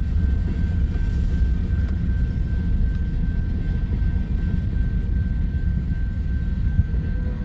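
Freight cars of a passing Union Pacific freight train rolling by in a steady, even low rumble, with a thin steady high tone held above it.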